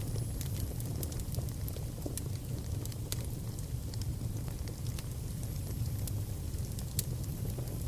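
Fire crackling in a fireplace: scattered sharp pops over a steady low rumble, with one louder pop near the end.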